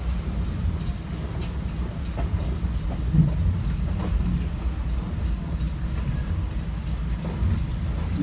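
Steam-hauled heritage passenger train running along the line, heard from inside a carriage at the window: a steady low rumble of the coach on the track, with a few clicks of wheels over rail joints.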